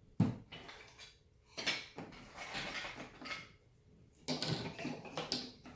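Wooden toy train track pieces knocking and clattering as they are handled, slid and fitted together, with a sharp knock at the start and a run of knocks about four seconds in.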